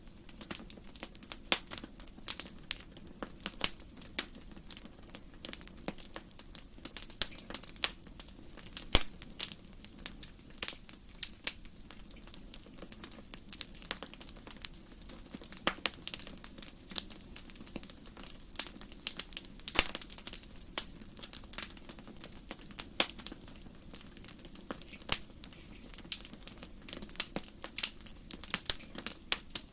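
Wood fire crackling in a fireplace: irregular sharp pops and snaps, several a second, over a faint steady low noise from the burning.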